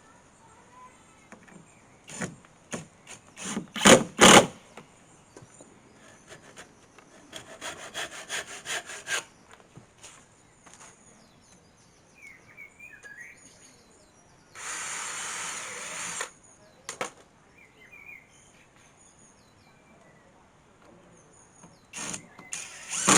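Carpentry on pallet wood: sharp knocks on timber, the loudest two close together, then a quick run of about eight rasping strokes like hand sawing. Later there is a steady noise lasting about a second and a half, with faint bird chirps in the gaps.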